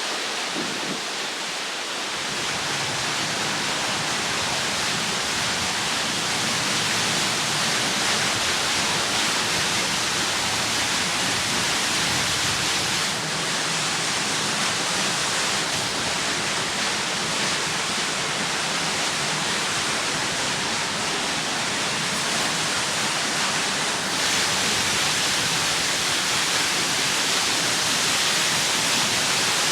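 Steady rushing of creek water over cascades, an even hiss without a break.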